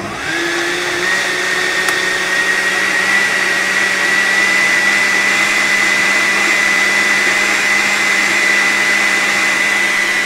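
Hamilton Beach countertop blender motor switching on and running steadily, blending a green pancake batter of avocado, lettuce and milk. Its whine rises in pitch during the first second as the motor spins up, then holds steady.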